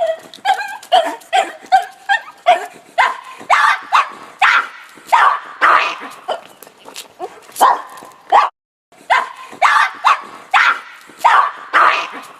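Dog barking rapidly, about two to three barks a second, starting with higher-pitched yipping barks; the barking breaks off briefly a little after the middle, then carries on.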